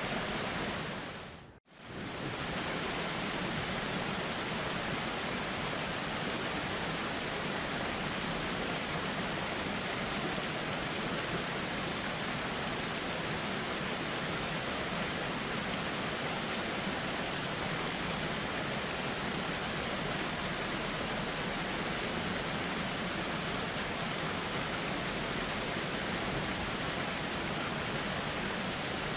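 Steady, even rush of a calm flowing river with wind. About a second and a half in, it fades out to near silence for a moment and then comes straight back.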